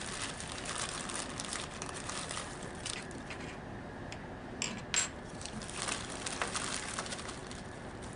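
Small hard plastic and metal parts of a diaphragm valve clicking and clinking as they are handled and fitted together, with a sharper click about five seconds in.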